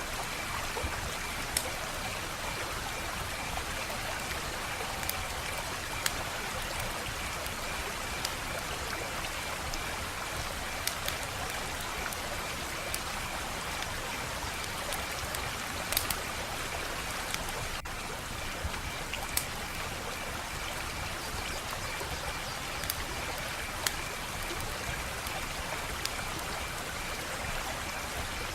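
Wood fire crackling, a steady hiss with a dozen or so sharp pops scattered through it, the loudest about 16 seconds in.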